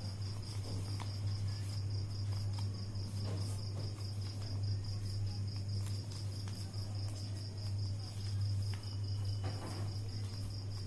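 A cricket chirping steadily, a high pulsing trill at about four to five pulses a second, over a steady low electrical hum, with faint rustles of paper being folded.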